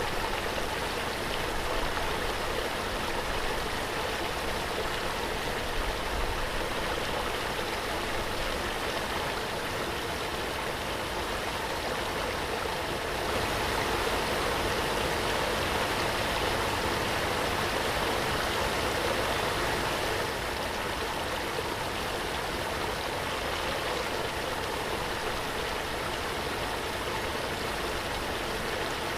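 Waterfall: a steady rush of falling, splashing water, slightly louder for several seconds in the middle.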